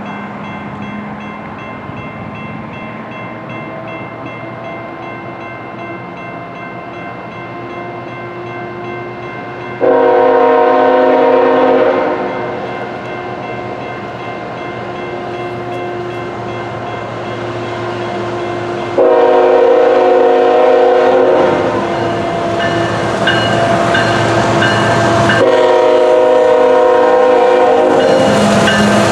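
CSX ET44AH locomotive 3402 sounding its horn for the grade crossing: three loud blasts, about ten seconds in, about nineteen seconds in, and a last one held from about twenty-five seconds through the end. An electronic crossing bell rings underneath, with the train's low rumble.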